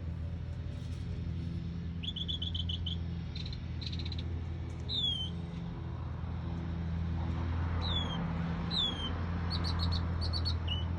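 Songbird singing varied phrases: a quick run of repeated notes, clear downslurred whistles, then rapid high chips near the end. The singer is taken for a northern mockingbird. A steady low hum runs underneath.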